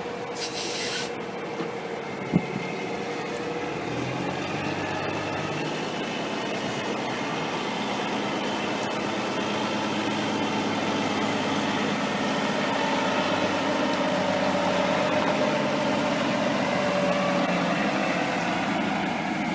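Semi-truck diesel engine running, its pitch shifting slowly and its level building as it pulls. There is a short hiss about half a second in and a single sharp click a little after two seconds.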